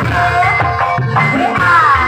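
Traditional Javanese ebeg (kuda kepang) accompaniment music: a gamelan-style ensemble with steady ringing metallic tones and pulsing drums under a high melody line that glides up and down.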